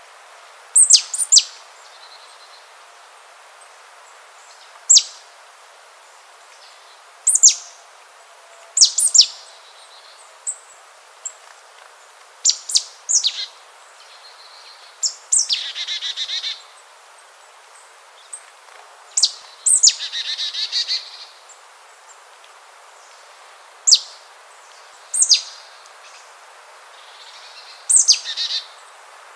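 Birds calling: sharp, high notes that sweep steeply downward, repeated every one to three seconds, with two longer buzzy trills in the middle, over a steady background hiss.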